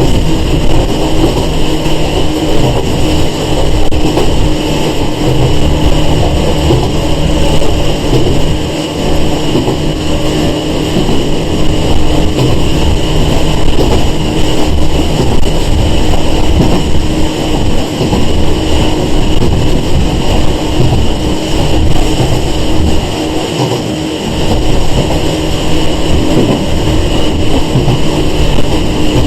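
Running noise inside a Sanki Railway 101 series electric train (ex-Seibu 401 series) travelling at a steady speed. Wheels rumble on the rails under a constant whine from the motors and gears, which holds one pitch throughout.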